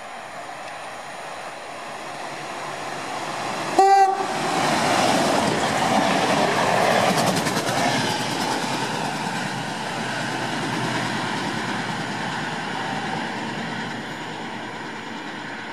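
SN84 diesel railcar sounds its horn once, briefly, as it approaches, then passes close by with engine and wheel-on-rail noise that swells and slowly fades as it pulls away.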